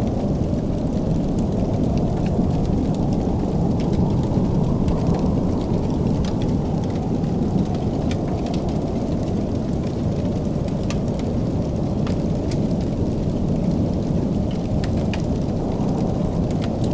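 Wood fire burning in a fireplace: a steady low rumble of the flames with scattered sharp crackles and pops, about one or two a second.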